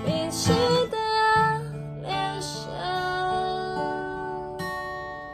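Acoustic guitar playing with a woman singing briefly in the first few seconds; the guitar notes then ring on and fade.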